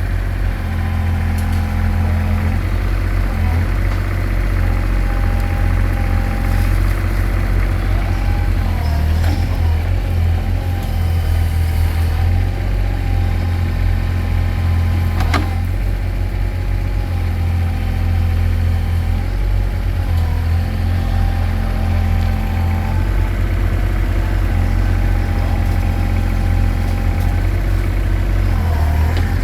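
Mini excavator's engine running steadily, with a mid-pitched whine that wavers as the boom and bucket are worked. There is one sharp click about fifteen seconds in.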